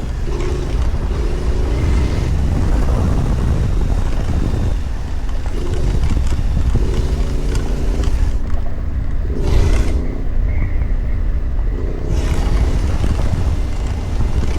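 CF Moto 450 MT adventure motorcycle's parallel-twin engine running while riding, its note swelling and fading with the throttle, under heavy wind rumble on the microphone.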